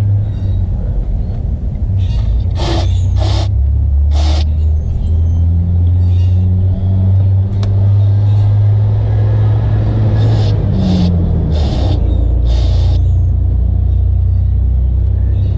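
A steady low rumble with short hissing scrapes, three and then four in quick runs, as a part is worked loose and pulled out of the engine bay.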